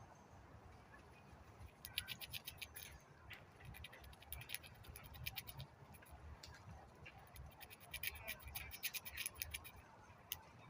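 Squirrel gnawing the shell of a hazelnut: quick runs of fine scraping clicks in several bursts, with short pauses between them.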